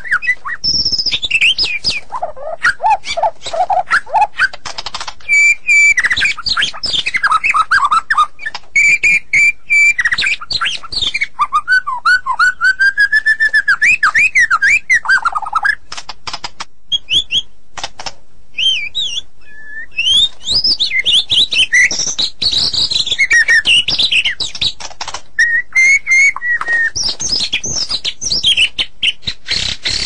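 White-rumped shama (murai batu) in full song: a long, varied run of loud whistles and sliding notes mixed with fast, dry rattling clicks, thinning to a few scattered notes about halfway through before picking up again.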